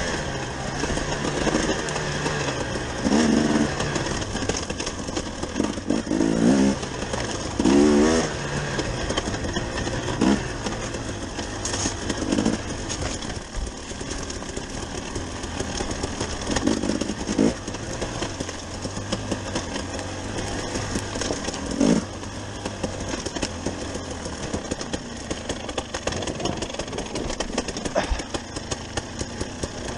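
KTM 250 EXC two-stroke dirt bike engine revving up and down under riding load, with repeated sharp rises in pitch every few seconds as the throttle is blipped and rolled on.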